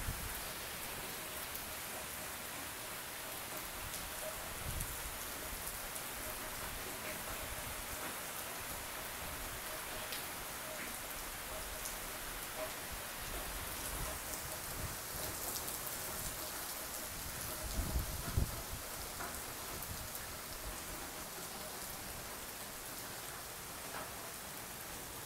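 Heavy tropical-storm rain falling steadily on a swimming pool, concrete patio and trees, with a brief cluster of low thumps about two-thirds of the way in.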